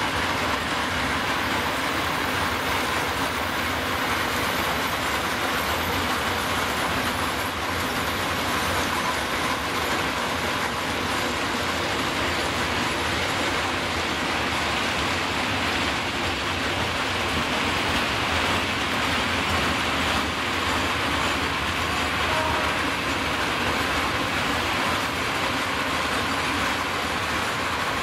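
Loaded freight train of PKP Cargo hopper wagons rolling steadily past, a continuous noise of wagon wheels running over the rails with some clatter.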